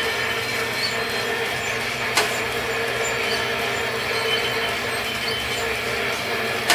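Coat-hanger kinetic sculpture running: a steady mechanical whir with a constant hum, and one sharp click about two seconds in.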